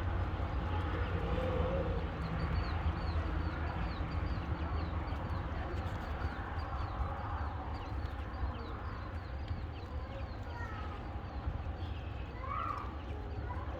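Button quail peeping: many short, high, falling chirps, several a second, with a few lower whistled notes, over a steady low hum.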